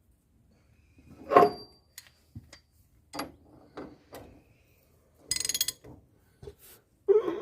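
Metal hand tools clanking and clicking against the wheel hub, with one loud ringing clank about a second in and a short run of quick ratchet clicks about five seconds in.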